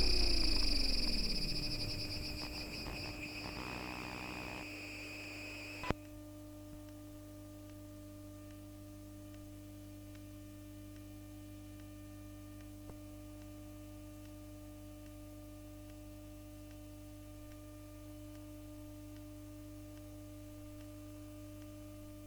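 Bombardier Flexity Outlook tram's MITRAC IGBT VVVF traction inverter and motors as the tram slows to a stop. The motor tones fall in pitch and fade over the first two or three seconds under a steady high inverter whine. About six seconds in, a sharp click cuts the whine off, leaving a steady low electrical hum.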